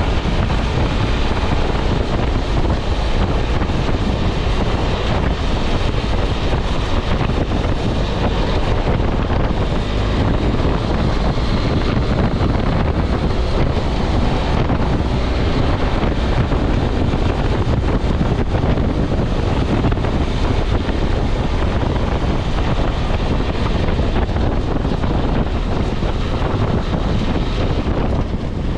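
Wind rushing over the microphone of a camera on a moving BMW F 650 GS motorcycle, with the bike's engine and tyre noise running steadily underneath.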